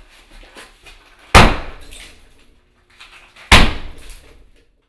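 Two heavy sledgehammer blows about two seconds apart, each a loud crash that breaks something and trails off with a shattering, clattering tail.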